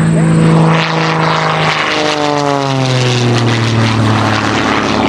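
Christen Eagle aerobatic biplane, its engine boosted well above 300 horsepower, making a low fly-by with a steady propeller drone. About two seconds in, the pitch drops as the plane passes and moves away.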